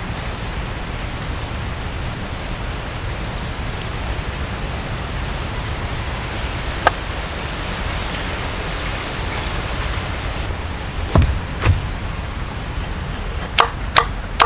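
A steady rushing noise with a few sharp knocks, most of them near the end.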